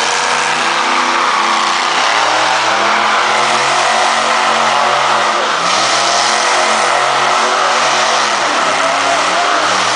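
Supercharged monster truck engine revving hard. Its pitch holds, dips briefly twice, and climbs again.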